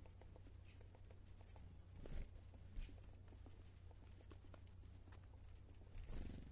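Near silence: a steady low hum with faint scattered ticks, and two brief soft rustles, one about two seconds in and one near the end.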